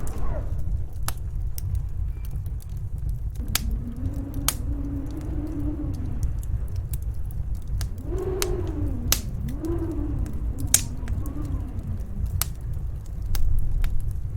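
Wood fire crackling in a fireplace with scattered sharp pops, over the low rumble of snowstorm wind. The wind howls in rising and falling moans several times through the middle.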